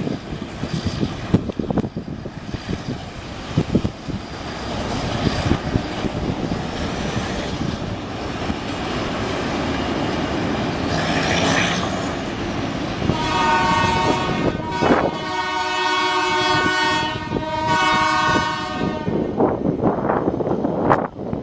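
GE U11B diesel-electric locomotives rumbling past with wheels clicking over the rails. About 13 s in, a locomotive horn sounds: a short blast, then a longer one of about four seconds.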